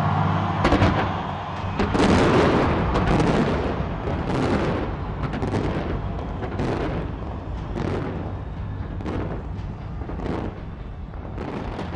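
Large fireworks display going off: a rapid, irregular string of bangs starting about a second in and continuing throughout.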